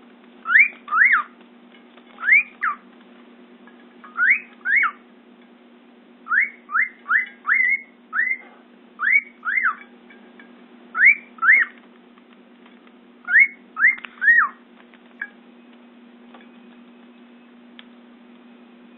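Male cockatiel singing: short clear whistled notes, each rising then dropping sharply, in quick pairs and threes, a courtship song. The whistling stops about three quarters of the way through, leaving a steady low hum.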